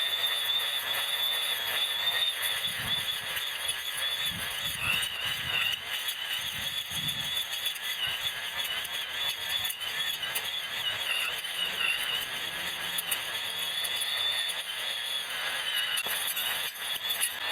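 Electric grass trimmer running and cutting grass, its motor whine and cutting noise played back eight times faster, so it sounds as a high-pitched, wavering squeal over a steady hiss.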